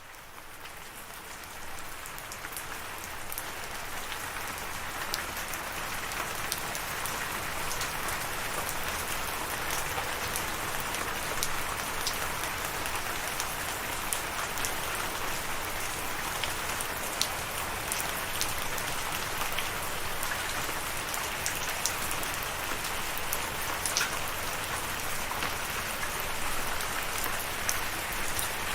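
Steady rain falling, an even hiss with scattered sharp drips landing close by. It swells up over the first few seconds, then holds steady.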